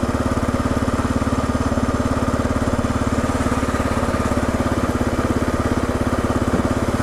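Kawasaki KLR 650's single-cylinder four-stroke engine running at a low, steady speed, its firing pulses even and unchanging.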